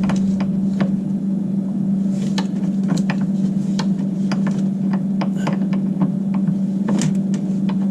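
A steady low machine hum with many light clicks and taps of hand work on the water heater's metal parts scattered over it.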